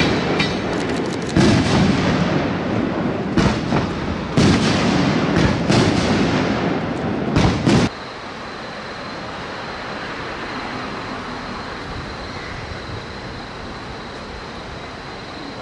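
Passenger train passing, a loud rumble broken by repeated sharp bangs and clatter from its wheels. About eight seconds in it cuts off abruptly to a steady hiss with a faint, thin high tone.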